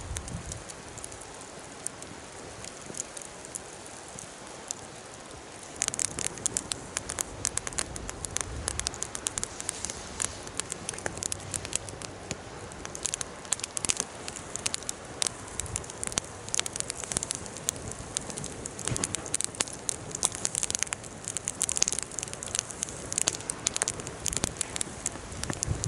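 Wood fire burning: a steady low rush at first, then from about six seconds in, dense crackling and popping.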